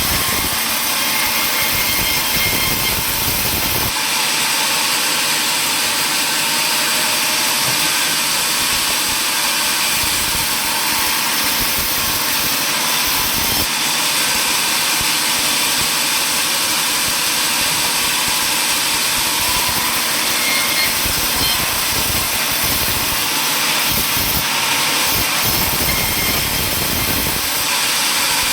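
Sawmill machinery running steadily with a loud, even noise; the low rumble thins out about four seconds in and returns near the end.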